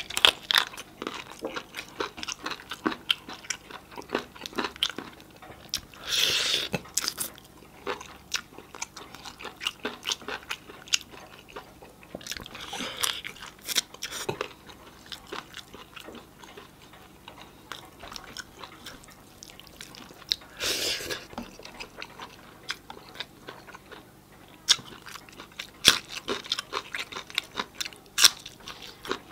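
Close-miked eating by hand: wet chewing, lip-smacking and small crunches as a man eats roast chicken and rice. A few louder hissing sounds, each about a second long, break in three times.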